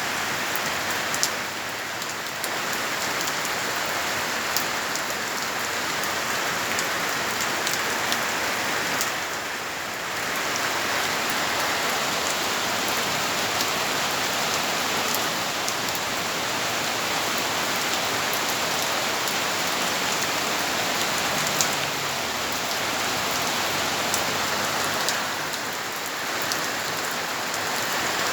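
Heavy rain pouring steadily, with sharp drips and drops striking nearby surfaces, easing slightly for a moment a few times.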